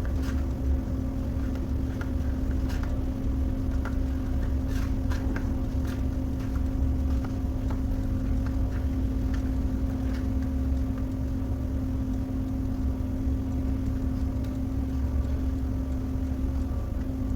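A steady machine hum with a low rumble and a constant held tone. Light, short clicks sound now and then during the first half.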